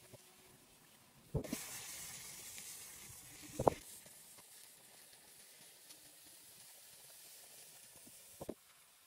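Pork and tomato frying in hot oil in a wok over a wood fire: a sizzle that starts suddenly with a knock about a second in and slowly dies down. A sharp knock against the wok near the middle, the loudest sound, and a smaller knock near the end.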